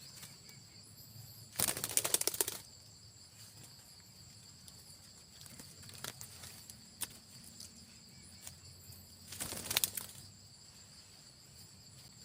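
Steady high-pitched drone of insects, broken twice by a short burst of rapid fluttering about a second long, the first a couple of seconds in and the second near the end.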